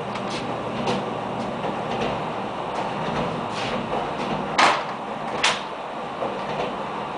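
Regional diesel railbus running, heard from inside the carriage: a steady rumble with scattered light clicks, and two sharp knocks a little under a second apart about four and a half seconds in, the wheels clacking over rail joints.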